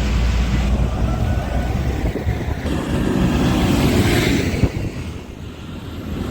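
Tractor engines rumbling low as tractors pass, with wind buffeting the microphone. The sound fades somewhat about five seconds in, after a single knock.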